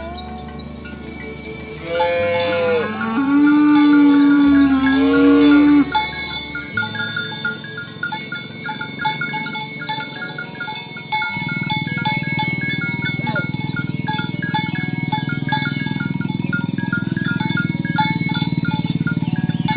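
A cow moos once, a call of about four seconds that starts high and settles lower, over background music with an even repeating beat.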